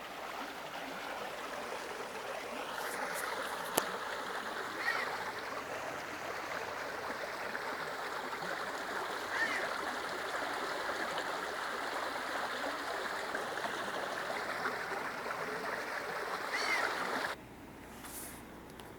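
Stream water rushing steadily, with a few short, faint high chirps over it; it cuts off suddenly near the end.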